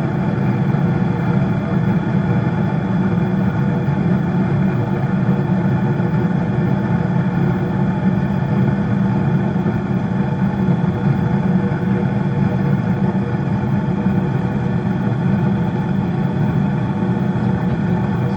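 Household furnace running: a loud, steady, unchanging hum with several steady tones.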